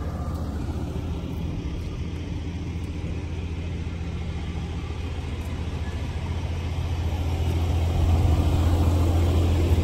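Low, steady rumble of a motor vehicle engine running nearby, with street noise; the rumble grows louder near the end.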